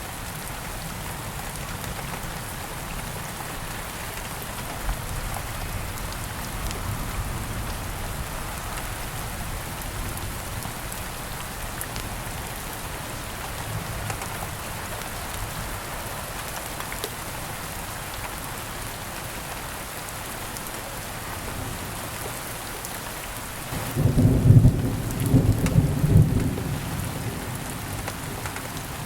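Steady rain falling, with a low rumble of thunder lasting a few seconds near the end.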